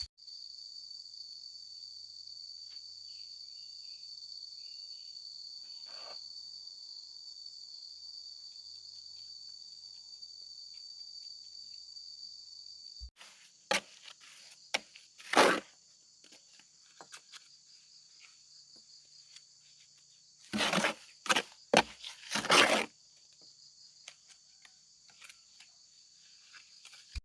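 A steady, high, shrill insect chorus goes on throughout, and drops suddenly in level about halfway through. Several short knocks and clatters come in the second half, the loudest a cluster of them near the end.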